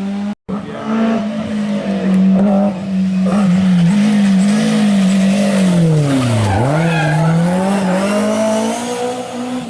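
Historic rally car's engine running hard under load, its pitch wavering, then revs dropping steeply about six and a half seconds in and climbing back as it pulls away again. A brief dropout just after the start.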